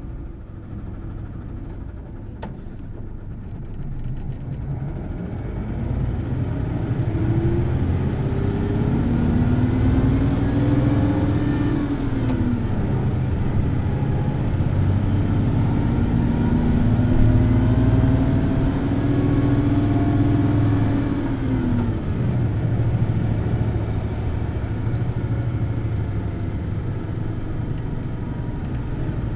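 Hino Blue Ribbon City Hybrid bus heard from inside while accelerating: the diesel engine note climbs high, drops at a gear change about twelve seconds in, climbs again and drops at another change a little past twenty seconds, then settles. A faint high whine from the hybrid drive rises and falls along with it.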